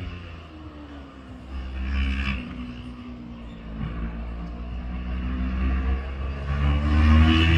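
Motorcycle engine running under way, its pitch stepping between steady notes and getting louder near the end.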